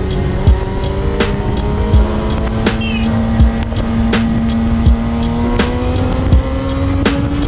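Honda CBR250RR MC22's inline-four engine running at high revs while riding, its pitch climbing slowly and steadily. Sharp knocks come at an even pace, about one every 0.7 seconds.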